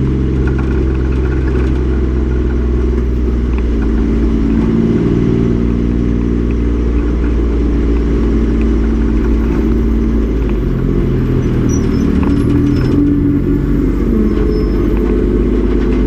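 Race truck's engine running at fairly steady, moderate revs, its pitch shifting up and down a little about two-thirds of the way through.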